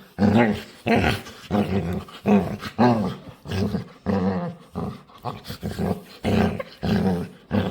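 A playful dog making a run of short, pitched, growl-like noises, about three every two seconds.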